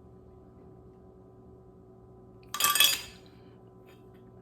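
Steady low room hum, then about two and a half seconds in a single sudden loud clatter that dies away within half a second.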